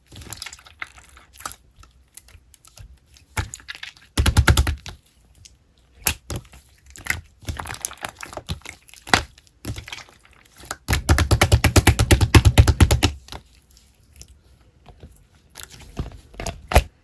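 Close-up crackling and clicking: two loud bursts of rapid clicks, one about four seconds in and a longer one from about eleven to thirteen seconds, with scattered single clicks between.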